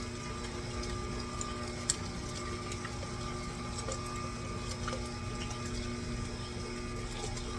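Electric meat grinder running steadily while grinding raw chicken, a constant motor hum. A single sharp click about two seconds in.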